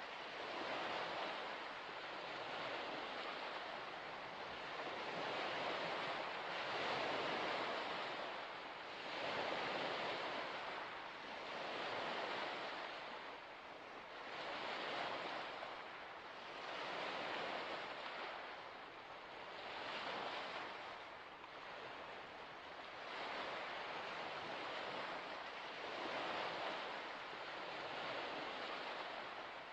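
Small waves washing in against a shore, a steady rushing that swells and falls back every two seconds or so.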